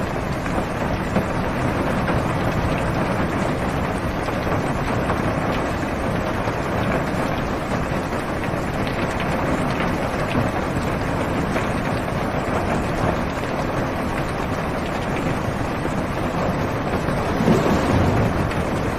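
Heavy rain drumming steadily on a car's roof and windows, heard from inside the car, with a brief low rumble of thunder near the end.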